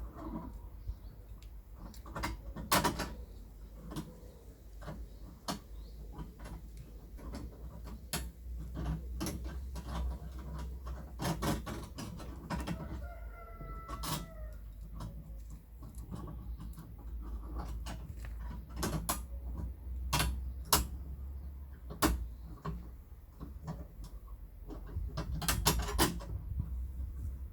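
Irregular clicks and knocks from hand work on a fence, with a steady low rumble underneath. A short animal call sounds about 13 seconds in.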